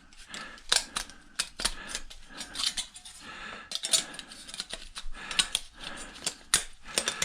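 Thin aluminium cooling fins on a microwave magnetron being pried up and bent loose with a hand tool: irregular sharp metallic clicks and clinks, several a second, with light scraping between them.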